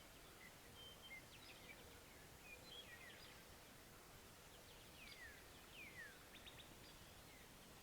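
Faint, scattered songbird chirps and short whistles, several quick downward-slurring notes among them, over a quiet background hiss.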